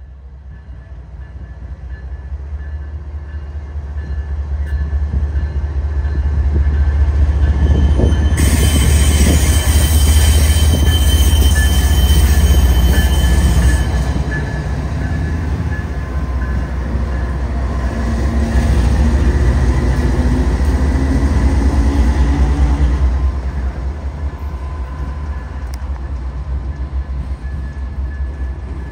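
Train passing close by: the low rumble of diesel locomotives builds to its loudest about eight to fourteen seconds in, then eases as the cars roll by. A hiss rises over it for about five seconds at the loudest part, and a thin steady high squeal from the wheels runs throughout.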